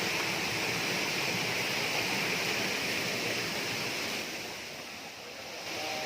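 Steady rush of falling water from a waterfall, fading a little about four seconds in and coming back up near the end.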